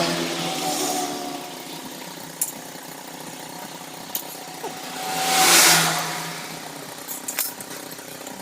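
Honda CB400 Super Four's inline-four motorcycle engine running, its pitch easing down at first and then revved once about five seconds in, with a few light clicks.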